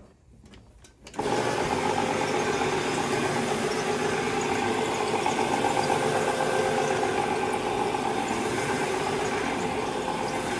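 Electric carpet-cleaning machine switched on about a second in, its motor then running steadily, after a few faint clicks.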